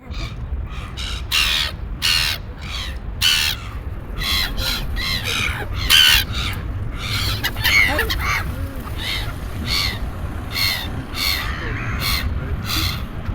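Several birds giving short, harsh, cawing calls over and over, one or two a second and sometimes overlapping, over a steady low rumble.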